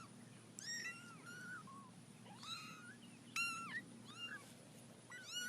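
Cat mewing faintly: a string of short, high-pitched mews, each rising and falling.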